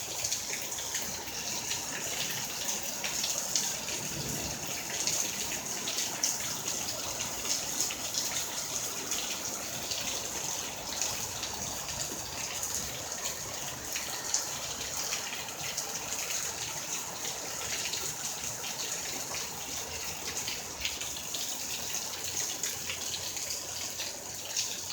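Heavy rain falling: a steady hiss of rain with the patter of many drops striking nearby surfaces.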